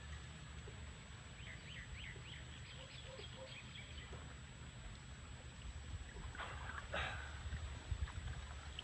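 Faint outdoor ambience over a steady low rumble: a bird chirps a quick run of short notes about a second and a half in, and two short noisy bursts follow near the end.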